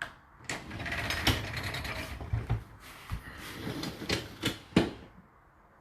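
A loaded dishwasher being handled: rattling and scraping with several knocks, ending in one sharp knock about five seconds in.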